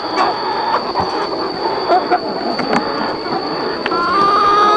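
A large flock of chickens calling, with many overlapping high cheeps and squeals, a few sharp clicks, and a steady high whine.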